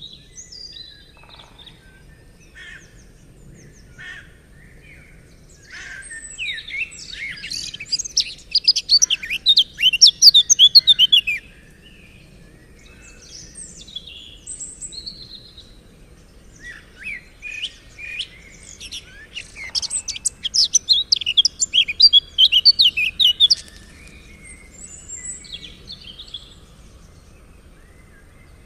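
Songbird singing: two long songs of rapid, high, loud notes, one starting about six seconds in and another past the middle, with scattered softer chirps in between.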